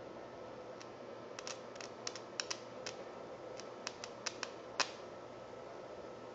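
Wire being heated by a high-current rewound microwave-oven transformer: a steady low hum with about a dozen irregular sharp crackles and clicks, the loudest about five seconds in, typical of overheating wire and melting insulation popping.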